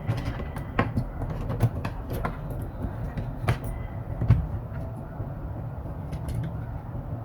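A steady low rumble with scattered sharp clicks and knocks at irregular moments, the loudest knock a little over four seconds in.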